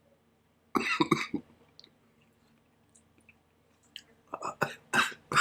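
A man coughing and clearing his throat in short, harsh bursts: a couple about a second in, then a quick run of them near the end. The bursts are a reaction to a dropperful of Wartryx pepper tincture burning the back of his throat.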